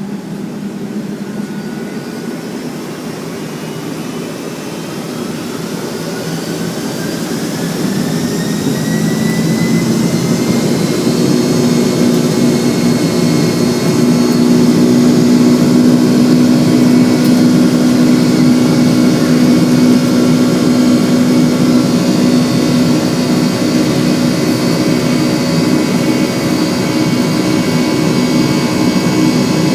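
Airliner jet engines spooling up to takeoff thrust, heard from inside the cabin: a whine rising in pitch and growing louder over the first ten seconds or so, then a steady, loud, even running for the rest.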